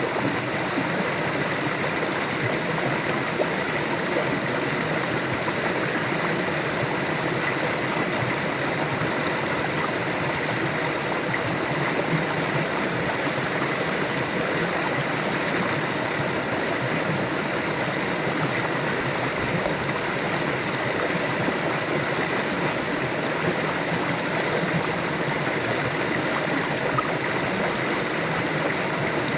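River water flowing over stones, a steady rushing and gurgling with no change.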